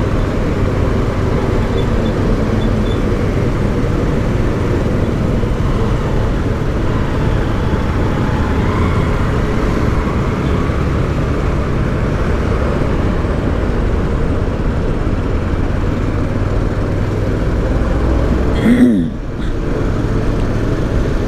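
Steady motorcycle engine and road noise heard while riding through traffic, with a short surge and then a brief drop in level about nineteen seconds in.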